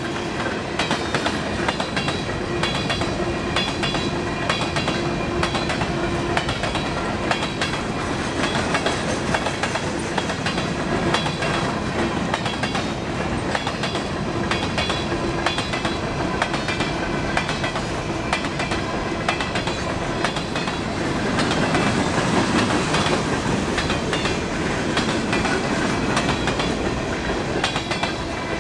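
Railroad cars rolling steadily past with a continuous rumble and wheels clicking over the rail joints. It grows louder about three-quarters of the way through.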